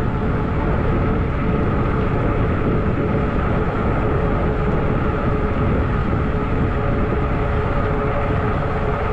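Riding noise from a Zota Zephyr 20-inch fat-tire e-bike rolling at speed: a steady rumble and wind rush over the microphone, with a constant, even whine from the drive.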